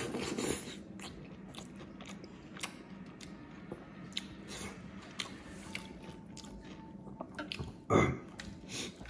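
A person chewing soft buckwheat dhido and greens eaten by hand, with scattered short wet clicks and mouth smacks. There is one louder burst about eight seconds in.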